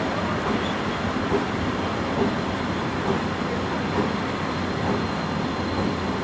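Steady running noise of a moving train heard from aboard a carriage: the rumble of wheels on the rails.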